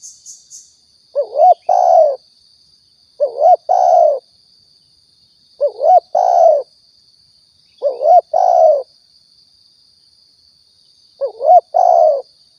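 Spotted dove (tekukur) cooing, a repeated lure-call recording: five calls, each a short two-note lead-in followed by a longer coo, about every two seconds.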